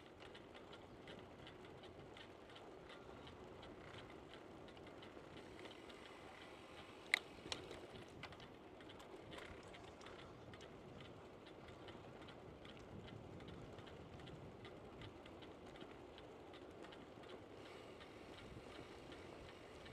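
Bicycle rear freewheel ticking quickly and steadily as the bike coasts, over faint tyre noise on pavement, with one sharper click about seven seconds in.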